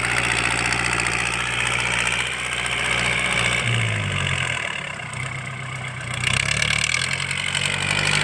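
L50 tractor's diesel engine, with no turbo, running through a free-flowing aftermarket exhaust (ท่อซิ่ง): a loud, steady exhaust note. It eases off for about two seconds past the middle, then picks back up.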